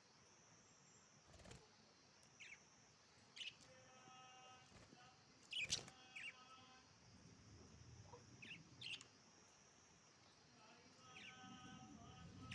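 Pet budgerigars chirping faintly: short, sharp chirps about once a second, scattered through the stretch, with a louder chirp around the middle.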